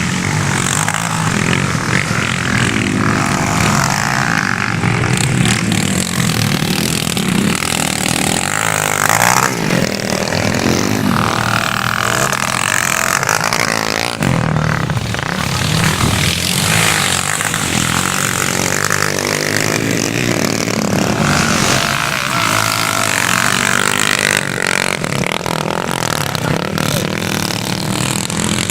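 Motocross dirt bikes riding the track, engines revving up and falling back over and over, several at once.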